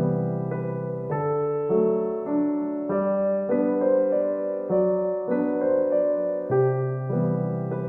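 Background piano music: a gentle melody of held notes over changing bass notes.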